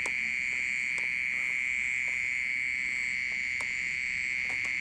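An unseen insect hidden in or around a plant pot gives a continuous, steady high-pitched ringing drone on one unbroken tone, loud enough to be taken for a water pump.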